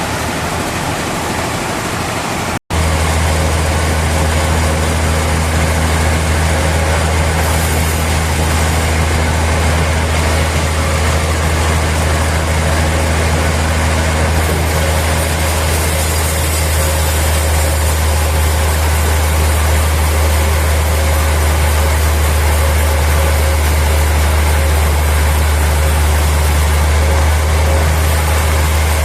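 A heavy engine or machine running steadily with a deep, unchanging hum. It breaks off suddenly for a moment between two and three seconds in, then comes back louder and holds steady.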